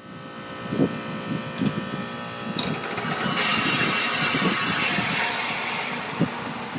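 Heat pump outdoor unit running in its defrost cycle: a steady machine hum with a rushing hiss that swells up about three seconds in and holds, then eases. This is the normal loud noise of a heat pump defrosting its frosted coil.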